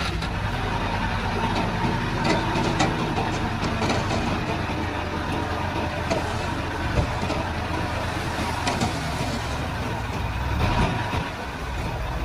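Komatsu D31-P crawler bulldozer's diesel engine running steadily under load, with scattered metallic clanks and knocks from its tracks.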